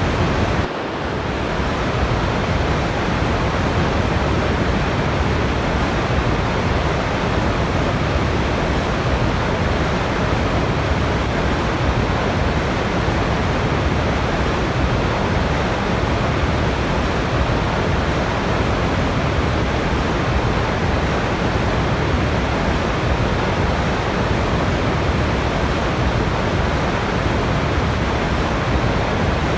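Waterfall water rushing as a steady, even roar, with a brief dip about a second in.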